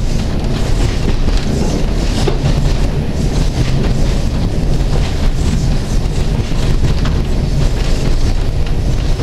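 A moving train heard as a steady low rumble, with faint irregular clicks and wind buffeting the microphone.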